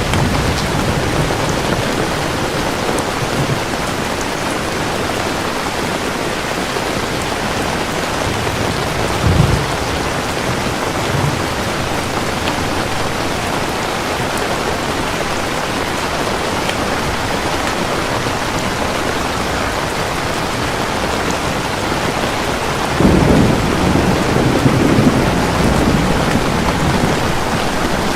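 Heavy, steady rain falling, with thunder: a short low rumble about nine seconds in, a fainter one soon after, and a longer, louder rumble of thunder near the end.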